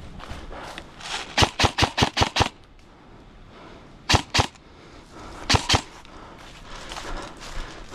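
Airsoft replica firing: a quick string of six shots, then two pairs of shots a little over a second apart.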